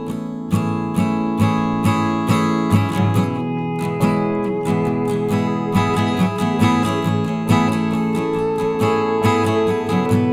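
Background music: an acoustic guitar strummed in a steady rhythm, about two strokes a second.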